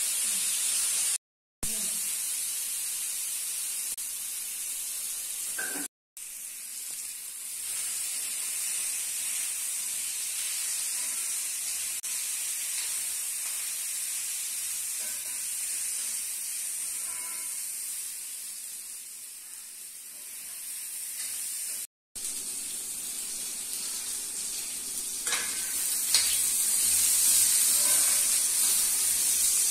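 Diced potatoes sizzling in hot oil in a black iron kadai while a steel spatula stirs and scrapes through them, louder in the last few seconds. The sound breaks off for a moment three times.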